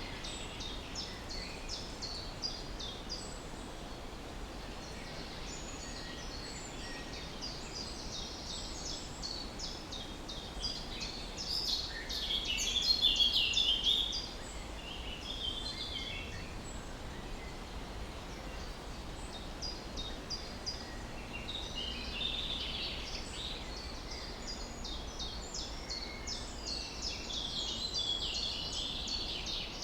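Several birds chirping and singing in quick, short, high notes that overlap throughout, over a steady low background noise. The song grows loudest and densest about twelve to fourteen seconds in, with smaller swells later.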